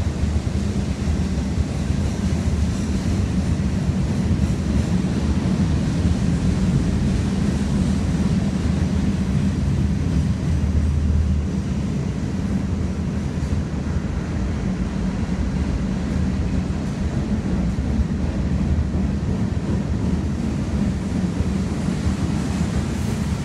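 Freight train cars rolling past at steady speed: a continuous low rumble of steel wheels on the rails.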